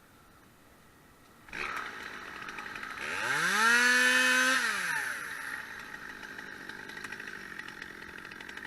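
Two-stroke chainsaw engine starting up abruptly and idling, then revved once to full throttle, held there for about a second and a half and let fall back to a fast idle.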